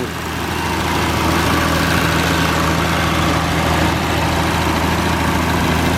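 A 1972 Triumph TR6's straight-six engine idling steadily.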